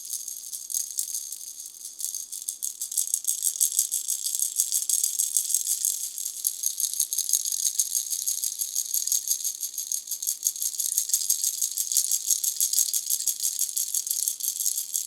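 Pineapple-shaped baby rattle shaken continuously, a fast, high-pitched rattling of its beads, dipping softer for a moment about two seconds in.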